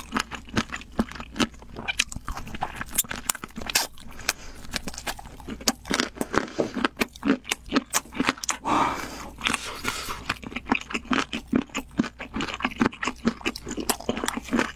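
Close-miked chewing of a red-glazed spicy chicken drumstick: a quick, irregular run of sharp mouth clicks and smacks.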